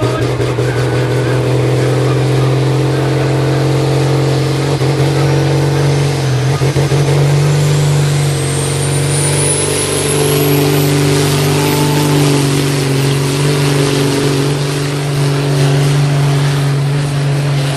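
Modified pulling tractor's engine running loud and steady, with a thin high whine that rises in pitch around the middle.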